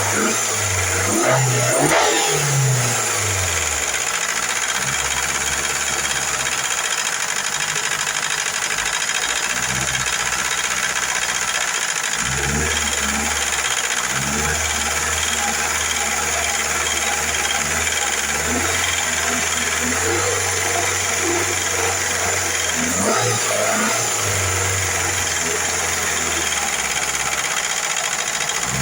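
Car engine idling, its low hum stepping up and down a few times. The engine has noisy hydraulic lifters that the owner is trying to quiet with a light oil.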